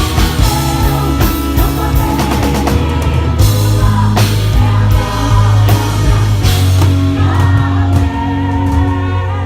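Live Christian worship band playing a loud rock-style song with singing: a steady bass line under regular drum hits, guitar and a lead voice.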